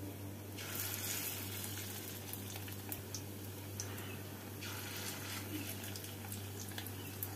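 Fish-roe and gram-flour batter fritters sizzling in hot mustard oil in a steel kadai as portions are dropped in: a hiss starts about half a second in and starts again after a short dip near the middle, with scattered small pops.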